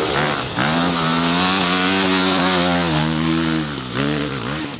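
Dirt bike engine held at high revs, dipping briefly about half a second in, then revved up and down in short blips near the end.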